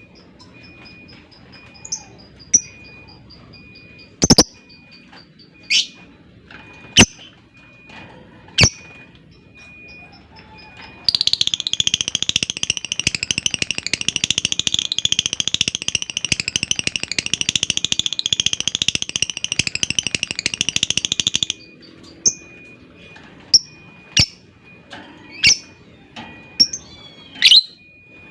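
Lovebird calling: sharp single chirps a second or two apart, then about eleven seconds in a long, fast chattering trill (the lovebird's 'ngekek') that lasts about ten seconds and stops abruptly, followed by more sharp chirps.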